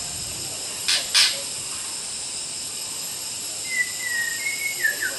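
White-rumped shama singing a short whistled, warbling phrase in the last second and a half, over a steady high hiss. Two sharp clicks about a second in.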